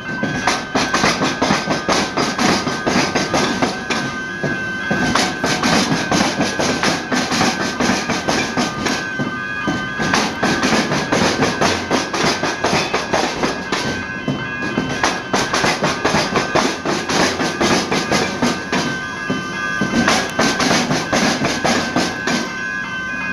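A train passing over the tram square's rail crossing, with rapid clattering throughout, while a steady ringing tone from the level crossing's warning bells sounds over it.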